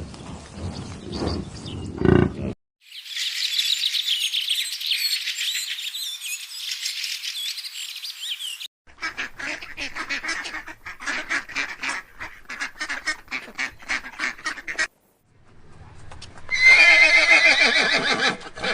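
A string of different animal calls, one after another: a low call, then high rapid chirping for several seconds, then a run of quick repeated calls, and a loud harsh call near the end.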